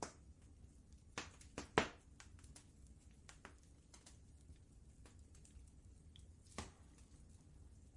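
Wood fire crackling in a fireplace: irregular sharp pops and faint ticks, with a cluster of louder pops about a second in and another near the end, over a low steady rumble.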